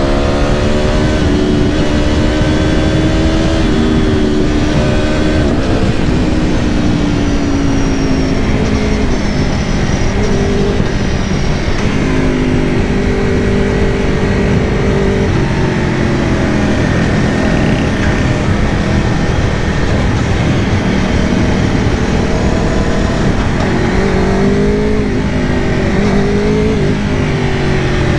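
2022 Aprilia Tuono V4 Factory's V4 engine heard from on board while riding, its pitch rising and falling several times as it revs up and changes gear, over a steady rush of wind and road noise.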